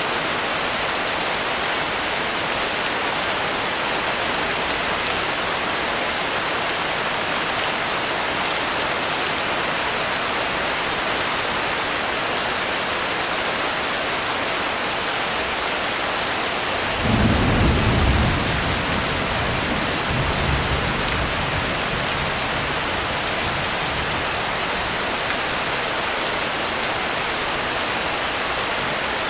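Steady rainfall hiss, with a roll of thunder a little past halfway: a sudden low rumble that swells for a couple of seconds, then rumbles on more weakly and fades out.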